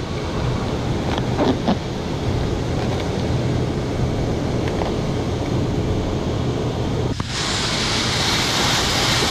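Grain-handling machinery, a bucket elevator leg and U-trough conveyor, running steadily with a low hum and a few faint clicks. About seven seconds in the sound abruptly turns into a brighter, louder hiss.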